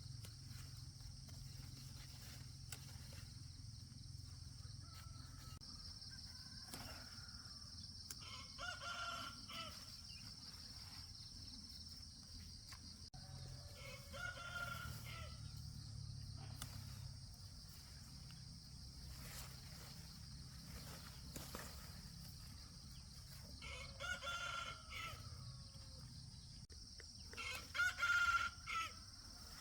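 A rooster crowing four times, the last crow near the end the loudest, over a steady high-pitched hum.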